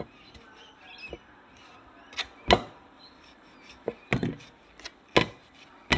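A handful of sharp, separate knocks and clicks, the loudest about two and a half seconds in and another just after five seconds.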